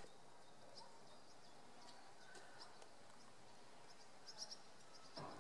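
Quiet outdoor ambience with scattered faint bird chirps, short and high, a few at a time.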